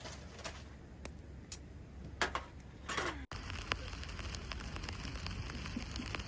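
Steady rain pattering, with two short calls falling in pitch in the first half. After an abrupt cut, dense sharp crackles sound over the rain.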